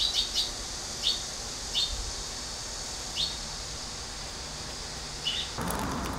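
Birds chirping: about six short, high chirps at uneven gaps over a quiet hiss. Near the end, water starts pouring from a kettle into a wide ceramic bowl.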